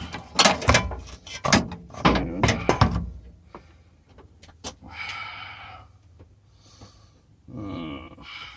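Quick series of metal clanks and knocks from hand tools working on a car's power steering pump and its bracket, dying down after about three seconds.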